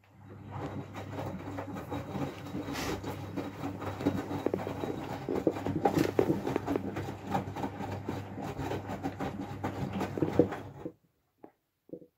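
Miele W433S washing machine filling with water for a high-level rinse: a steady hum with a dense crackle of water coming in, starting at once and cutting off suddenly after about eleven seconds.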